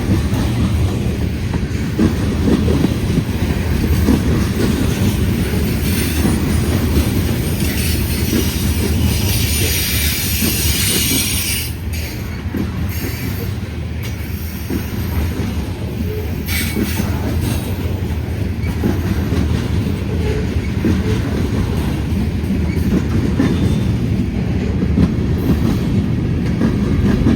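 Freight train cars rolling past at close range with a steady rumble of wheels on rail, and a stretch of high hiss or squeal from the wheels about a third of the way through.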